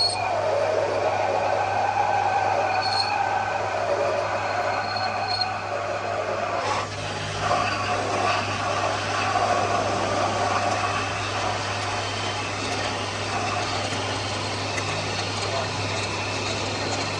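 Metalworking lathe running steadily, its cutting tool working on steel with a constant low hum and shifting, high metallic squealing tones.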